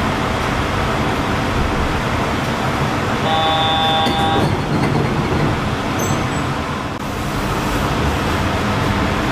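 Yurikamome rubber-tyred automated guideway train running, a steady rumble and hiss of tyres and motors. About three seconds in, a horn sounds once for just over a second.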